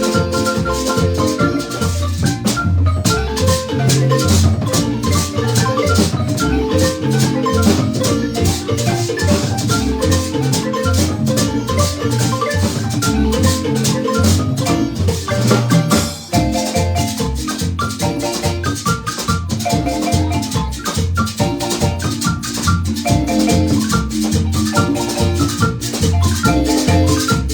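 Marimba band playing a lively piece: mallets striking wooden bars in quick runs over low bass notes, with percussion keeping a steady beat. The music breaks off for an instant about sixteen seconds in, then carries on.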